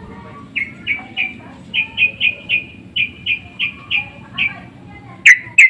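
Yellow-vented bulbul calling: a run of short, sharp chirping notes, about three a second, then two much louder, sharp notes near the end.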